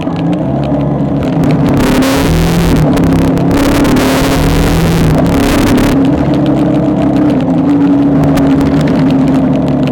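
Vehicle engine running at a fairly steady speed while moving, with a louder rushing hiss for about four seconds in the middle.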